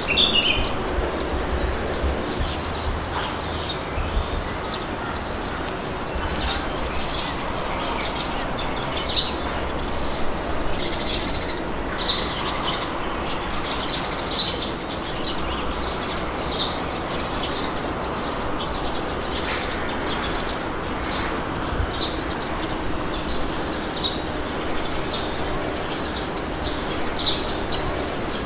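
Wind blowing with a steady low rumble, while birds chirp in short calls on and off.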